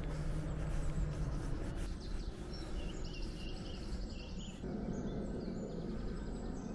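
A bird singing a run of quick, high chirps and trills from about two seconds in, over a steady low outdoor rumble.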